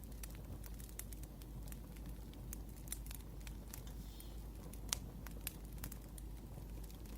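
Wood fire crackling: scattered sharp pops and ticks over a low steady rumble, with one louder pop about five seconds in.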